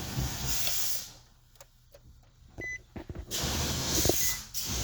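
A few light clicks and a short electronic beep from a car's ignition and dashboard as the key is turned, between stretches of hiss from wind or handling on the microphone.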